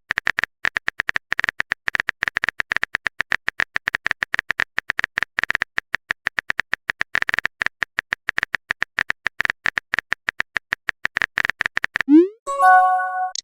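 Phone-keyboard typing clicks in a fast, uneven run, as a message is typed out in a texting app. Near the end a short rising swoosh marks a message being sent, followed by a pitched message-notification chime.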